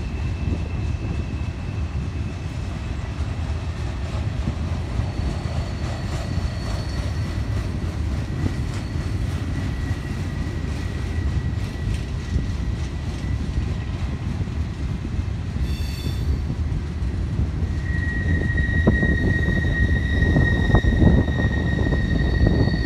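Freight train's tank cars and flatcars rolling past: a steady low rumble of wheels on rail with a thin, steady high wheel squeal. The squeal gets louder about 18 seconds in, with sharp clacks of wheels over the rails.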